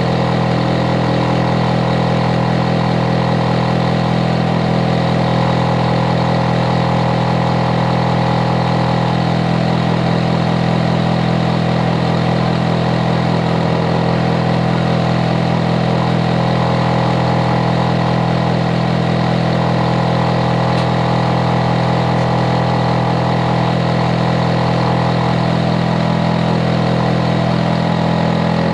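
Hitachi air conditioner outdoor unit running steadily and loudly: a constant low compressor hum with many steady tones layered over fan noise.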